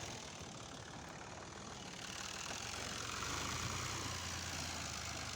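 2005 Al-Ghazi tractor engine running steadily while it pulls a harrow. It is a low drone that grows a little louder and fuller about three seconds in.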